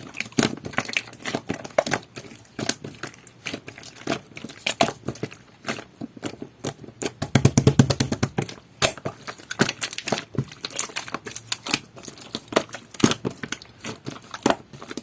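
Jelly-textured slime being kneaded and pressed by hand, making dense sharp clicks and pops, with a quick run of them about seven seconds in.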